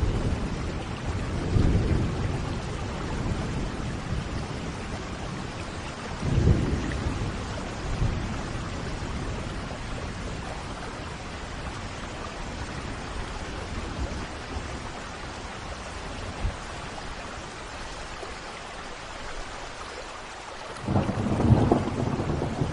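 Steady rain falling during a thunderstorm, with thunder rumbling near the start, again about six seconds in, and rolling loudly in near the end.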